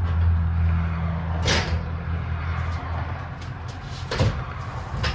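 Knocks and clunks of a bicycle being handled and moved, three sharp ones about a second and a half in, about four seconds in, and at the end, over a low steady hum.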